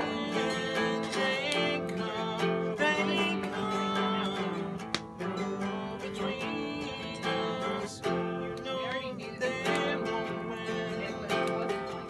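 Acoustic guitar strummed and played live, a steady run of chords.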